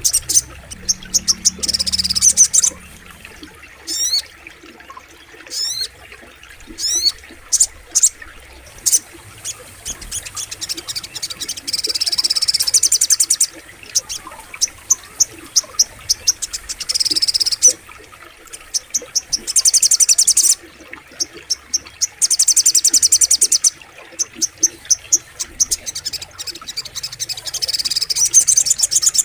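Little spiderhunter (sogok ontong) calling in bouts of rapid high chirps lasting one to two seconds, with a few short sweeping notes in between.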